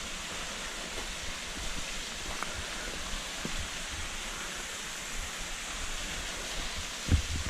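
Small waterfall rushing steadily, a constant even hiss of falling water. A few low thumps and rumbles start near the end.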